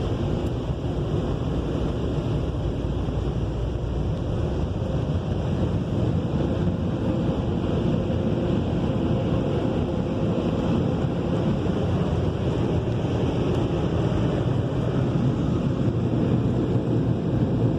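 Belanger air-cannon car wash dryers blowing over the car, a strong, steady rush of air heard from inside the cabin, growing slightly louder near the end.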